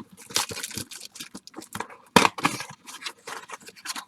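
Baseball card pack wrappers being torn open and crinkled by hand: a quick run of rips and rustles, with one loud tear a little over two seconds in.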